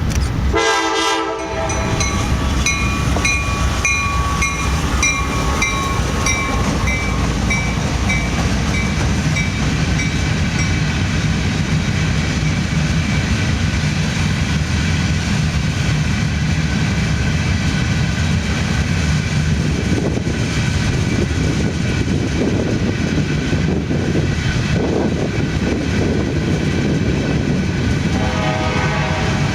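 A freight train of empty hopper cars rolls past with a steady rumble of wheels on rail. The locomotive horn gives a short blast about a second in and another near the end, and a bell rings in repeated strokes that fade away over the first several seconds.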